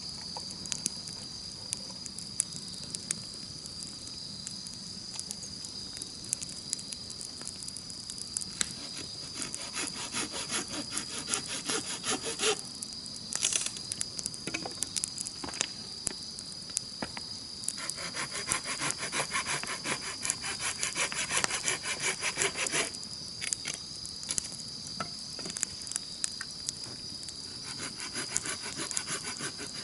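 Wood campfire crackling with scattered sharp pops over a steady, high-pitched insect trill. A rapid, rhythmic rasping comes in bouts of a few seconds: about a third of the way in, then longer in the middle, and again near the end.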